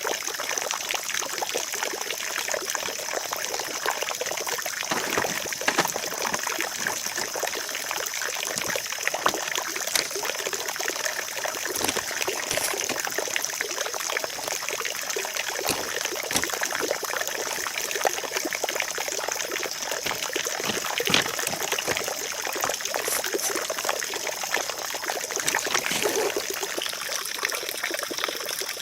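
Steady trickling, water-like rushing noise with a bright high hiss, broken by scattered light clicks and knocks.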